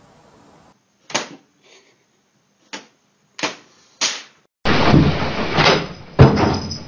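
A cat pawing at a wooden cabinet door: a few separate light knocks, then a loud stretch of the door rattling and banging against its frame, with two heavy bangs near the end.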